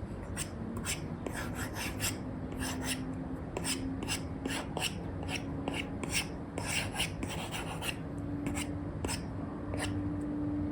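Apple Pencil with an Elecom nib scratching across a paper-like screen protector on an iPad in quick, short sketching strokes. A faint steady hum sits underneath.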